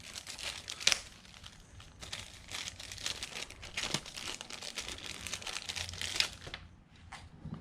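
Plastic bag crinkling and rustling as it is handled, an irregular run of crackles, while oil filter parts are swapped.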